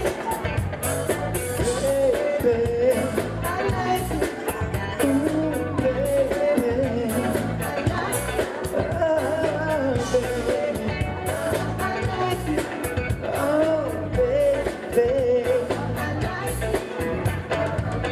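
Live band playing an upbeat dance number with a singer over drums and bass.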